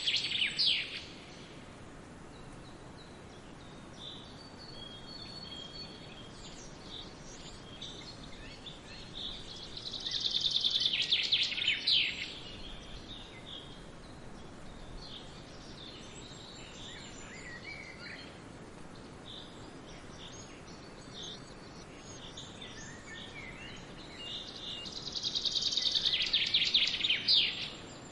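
Songbirds singing in woodland. One bird repeats a loud, fast trilled phrase of about two to three seconds roughly every fifteen seconds, with quieter chirps from other birds in between, over a steady faint hiss of wind or distant water.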